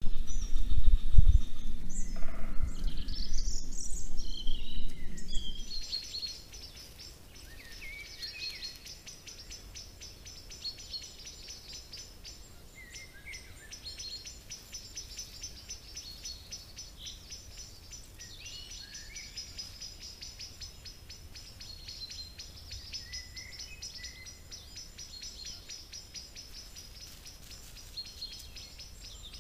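Outdoor ambience recorded by a trail camera's microphone, with wild birds calling and singing. For the first six seconds there is a louder low rumble under the chirps. After that it is quieter: a fast high trill repeats throughout, with short chirps every few seconds.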